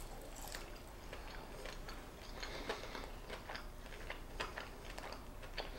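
A person chewing a breaded fried chicken finger close to the microphone: faint, irregular small clicks and light crunches of the mouth working the food.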